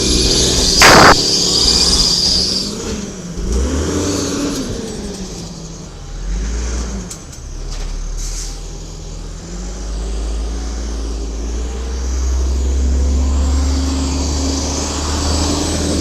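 Garbage truck's Cummins L10G natural-gas engine running and revving up and down. A loud hiss of air with a sharp blast about a second in, typical of the truck's air brakes.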